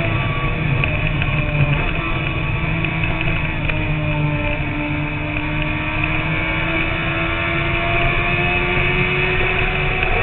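Sport motorcycle engine running at a steady cruise, its note dipping slightly around the middle and climbing gently toward the end, with wind noise underneath.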